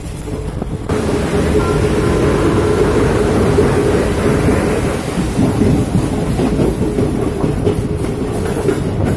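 A train running: a steady loud rumble with a held tone through it, growing louder about a second in.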